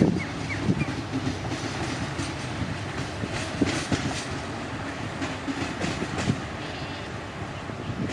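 Diesel multiple unit running on the rails: a steady rumble with scattered clicks of wheels over the track.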